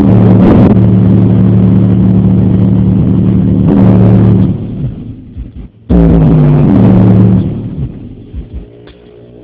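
Heavy bass notes played very loud through a car audio system's 12-inch JBL subwoofer, distorted. The bass drops out partway through and comes back suddenly about six seconds in with a falling note, then fades again.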